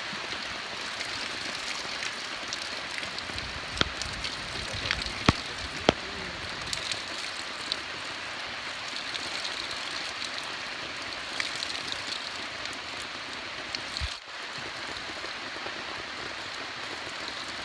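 Steady rain falling, with a few sharp knocks about four to six seconds in.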